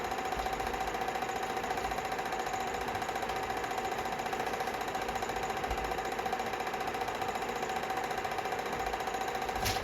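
A steady mechanical drone with a fast, even pulsing and a constant tone, and a sharp click near the end.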